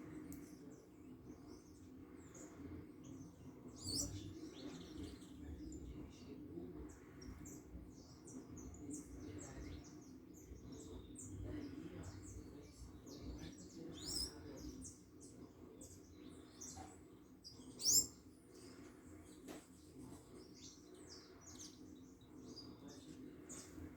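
Small birds calling with short, high chirps and tweets scattered throughout, a few louder than the rest, the loudest about three quarters of the way through, over a steady low hum.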